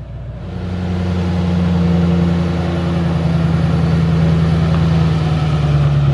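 Tow vehicle's engine pulling an Airstream travel trailer: it picks up about half a second in, grows louder over the next second, then runs steadily at an even pitch.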